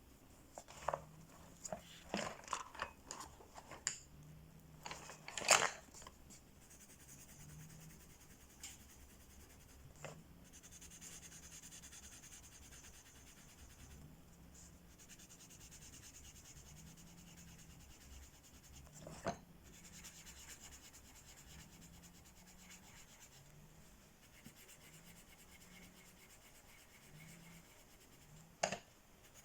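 Coloring tool rubbing across paper in strokes, with a quick cluster of sharp clicks and taps in the first few seconds and single clicks about ten, nineteen and twenty-nine seconds in.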